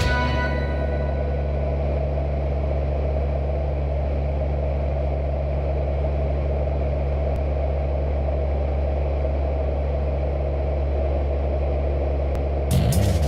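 Cessna 172 single-engine light aircraft's piston engine and propeller droning steadily in flight, a low, even hum. Background music fades out at the start and comes back in near the end.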